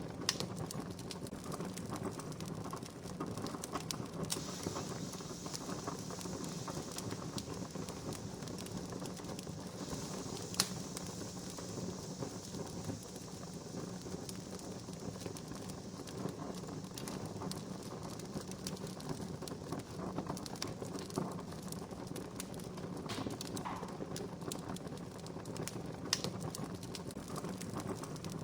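Wood campfire crackling, a steady hiss full of small irregular pops, with a sharper pop about ten seconds in.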